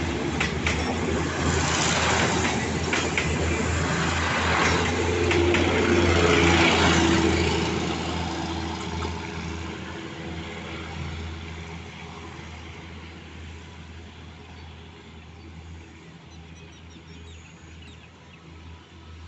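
Commuter train running past and away, its wheels clattering over the rail joints, then fading steadily into the distance.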